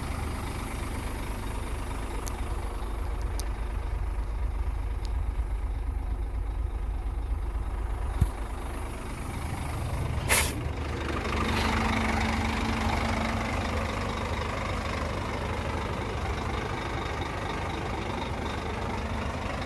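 Scania truck's diesel engine idling steadily, with a click about eight seconds in and a short, sharp hiss of released air about ten seconds in, followed by a brief steady hum.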